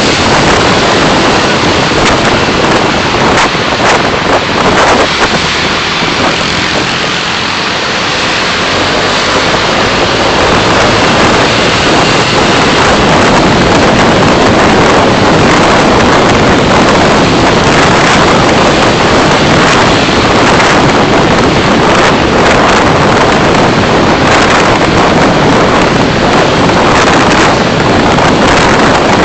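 Loud, steady road and wind noise from a moving car picked up by its dashcam microphone, easing slightly about seven seconds in.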